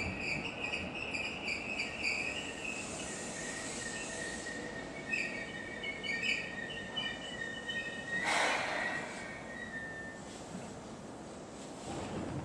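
Seibu 3000 series electric train coming to a stop at the platform, with high squealing tones from the train for several seconds, then a short burst of air hiss about eight seconds in.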